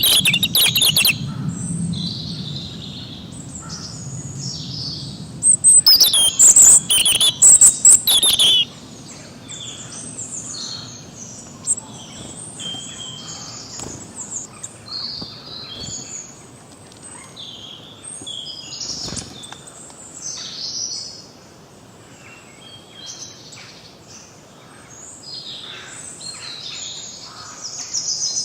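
Several songbirds chirping and singing together, short calls overlapping. Two loud bouts of rapid chattering calls stand out, one at the start and one from about six to eight seconds in.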